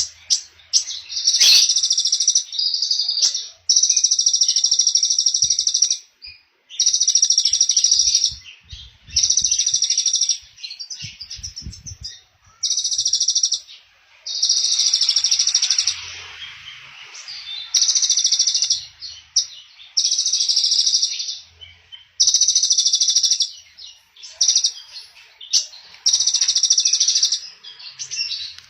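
A small songbird repeating a high, rapid trill, each burst lasting about a second and a half with short pauses between, roughly one every two seconds.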